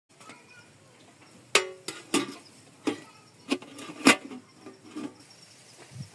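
Kitchen utensils and pots knocking and clinking: about eight sharp, irregular strikes, the loudest about one and a half and four seconds in.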